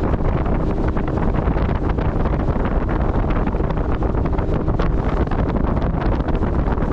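Wind buffeting the microphone heavily over the steady running of a PVC motorboat under way on a Tarpon 9.9 outboard motor, with water noise from the hull.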